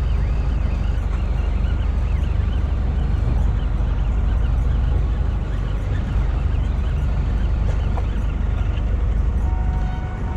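Fishing boat's engine running with a steady low rumble, with water and hull noise over it.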